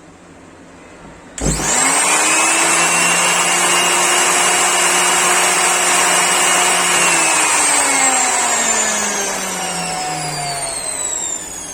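Dnipro-M GL-230 angle grinder switched on about a second and a half in, spinning up at once to a steady high whine, then switched off about seven seconds in and winding down with a falling pitch. It runs without crackling from the gearbox: the broken pieces of housing that caused the crackle have been taken out.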